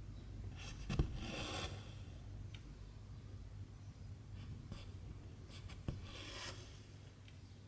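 Needle punching through 11-count cross-stitch fabric with a small tick, then silk thread drawn through with a rasping swish, twice.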